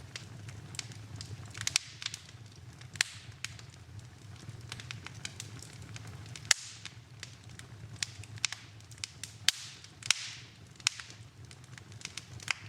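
Wood fire burning in a fireplace: irregular sharp crackles and pops over a low steady rumble, the loudest pop about halfway through, with a brief hiss near the end.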